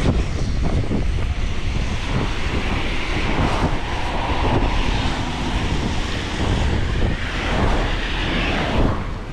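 Wind buffeting the microphone while riding a folding bike downhill: a steady low rumble, with a hissing swell through the middle that drops away near the end.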